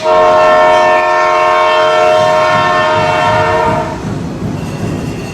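Loud arena horn sounding one long held note for about four seconds, then cutting off.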